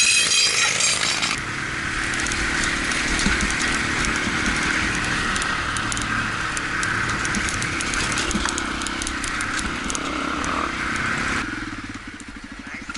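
Honda XR250 motorcycle riding along, its single-cylinder engine running under rushing wind and road noise, with scattered rattling clicks. Near the end the noise drops and the engine's low, even pulsing comes through as the bike slows.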